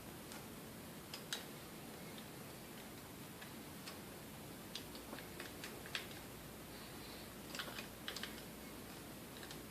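Scattered light metallic clicks and taps, about ten in loose clusters, as a small hand tool works on the metal motor parts of a KitchenAid A9 coffee mill being taken apart, over a faint steady background.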